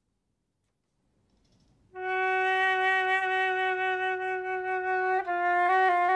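Flute playing: after a short silence, one long held note begins about two seconds in, then breaks into quick short notes near the end.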